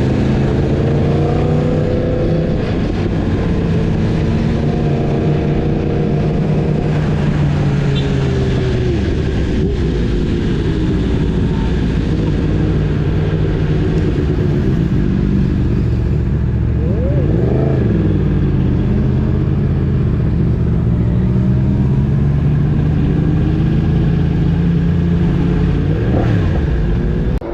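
Motorcycle engines running at riding speed, the engine note slowly rising and falling in pitch with throttle and gear changes. Twice, about two-thirds of the way through and again near the end, a sharper engine note briefly rises and falls.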